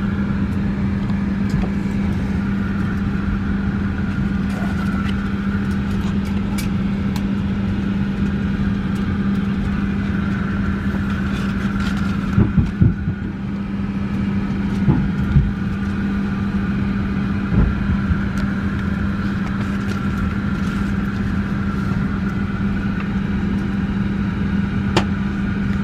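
Steady cabin noise inside a Boeing 757-300 airliner: an even rushing drone with a constant low hum, and a few brief knocks about halfway through.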